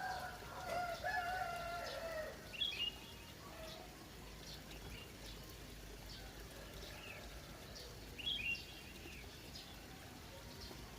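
A rooster crows once in the first two and a half seconds. Small birds give short, high chirps that repeat every few seconds, over a faint, steady background hiss of trickling water.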